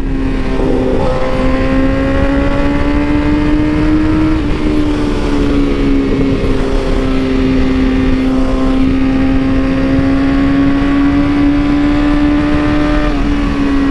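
BMW S1000RR inline-four engine running at a steady cruise, its pitch creeping up and then dropping once about four and a half seconds in, over a low rushing noise.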